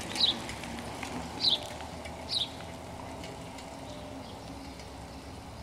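A bird chirping three times in the first two and a half seconds, each a short, high note sliding downward, over a faint steady background.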